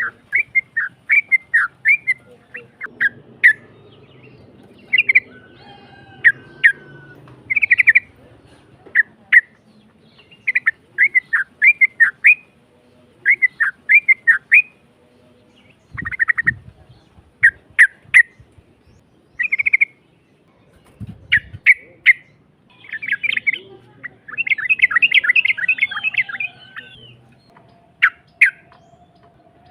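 Yellow-vented bulbul (trucukan) singing a rough, bubbly song in quick bursts of short notes, with a longer run of dense chattering near the end. Two dull low thuds come midway.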